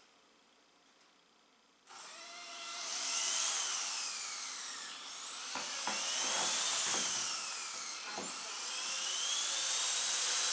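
Blade mCP X BL2 RC helicopter spooling up: its brushless motor and spinning rotor blades start with a high-pitched whine about two seconds in. The pitch rises and falls several times as the throttle is worked, and the sound gets louder toward the end.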